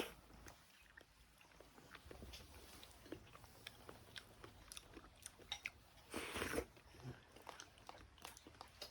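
A person eating rice porridge from a bowl: faint chewing with scattered small clicks, and one short louder rustle about six seconds in.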